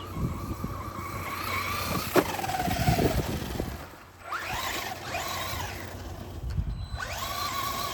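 Electric RC rally car's motor whining as it drives flat out on a 2S battery through long grass. The whine falls away about four seconds in, then rises again in two sweeps as it accelerates, with a sharp click about two seconds in.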